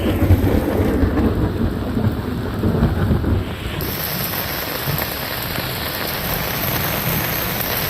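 Heavy monsoon rain falling with a steady hiss, while thunder rumbles low for the first three seconds or so and then dies away, leaving only the rain.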